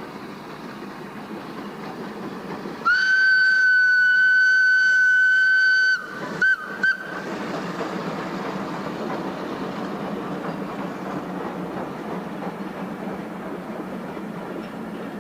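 A steam locomotive's whistle blows one long blast of about three seconds, then two short toots, over the steady running noise of the train.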